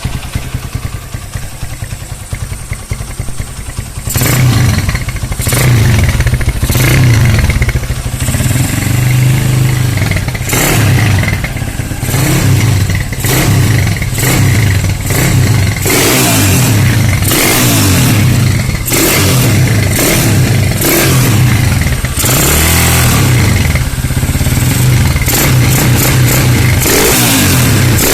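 Honda GL motorcycle's single-cylinder four-stroke engine with an imitation aftermarket exhaust (knalpot imitasi), idling for about four seconds, then revved again and again in short, loud blips.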